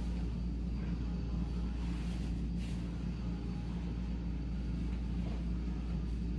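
Vacuum cleaner running steadily in the background: a constant low drone with a thin, steady high whine from the motor.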